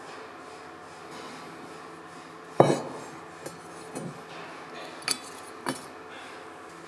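Small metal parts or tools clinking against a hard surface: one loud sharp knock with a short ring about two and a half seconds in, then three lighter clinks.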